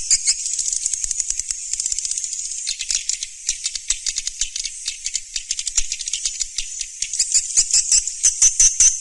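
Swiftlet calls: a dense, continuous stream of rapid, high, dry chirps and twitters, many per second, growing busier near the end. This is a recorded swiftlet lure call ('suara panggil walet') of the kind played to draw swiftlets to a nesting house.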